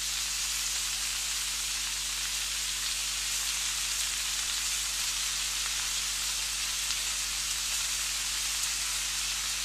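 Stir-fry vegetables and noodles sizzling steadily as they fry in the pan.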